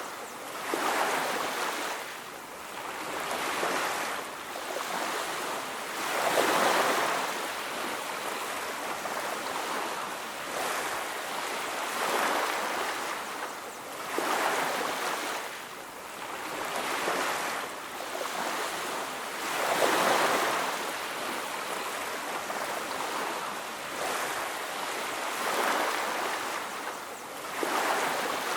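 Ocean surf on a beach: waves breaking and washing in, the rushing hiss swelling and falling back about every two to six seconds.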